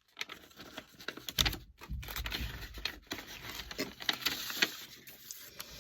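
Rustling and crinkling with scattered clicks and taps: handling noise.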